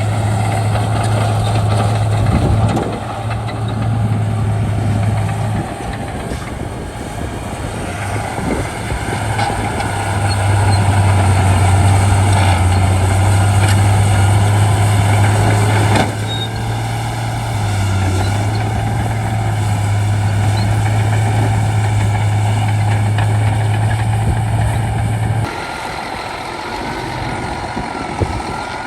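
Large bulldozer's diesel engine running steadily with a strong low drone that swells and eases as it works, changing abruptly twice.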